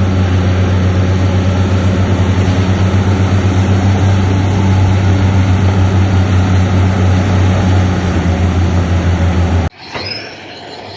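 Heavy construction-machine diesel engine running steadily under load with a deep, even hum and a slight regular pulsing. It cuts off abruptly near the end, giving way to quieter, higher metallic squealing such as crawler tracks make.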